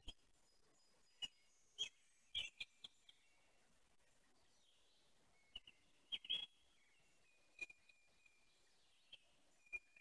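Quiet background with a few short soft clicks and faint, scattered bird chirps, about ten events in all.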